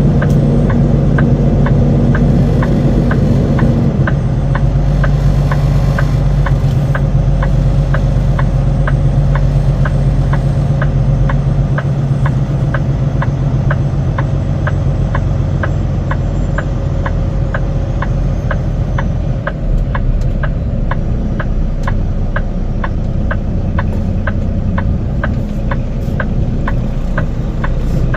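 Semi truck's diesel engine running steadily at low speed, with a regular clicking about twice a second throughout.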